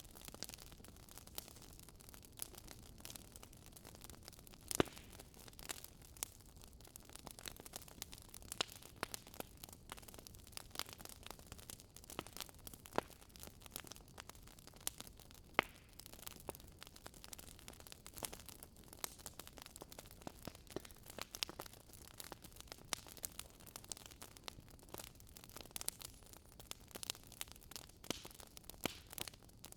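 Wood fire crackling in a fireplace: irregular sharp pops and snaps over a soft steady hiss, the loudest pop about five seconds in.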